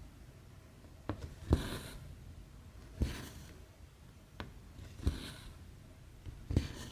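Hand cross-stitching on 11-count stamped cross stitch fabric: the needle pokes through with a sharp tick, and the floss is then drawn through with a short hiss. This repeats about every one and a half seconds.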